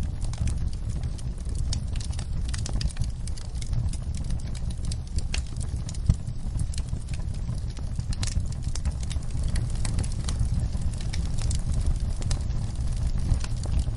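Fire in a fireplace crackling, with frequent small snaps and one sharper pop about six seconds in, over a steady low rumble of the flames.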